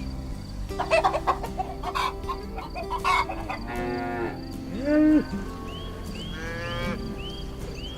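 Farm animal calls over background music: chickens clucking in the first few seconds, a cow mooing about four to five seconds in, and a run of short repeated high chirps near the end.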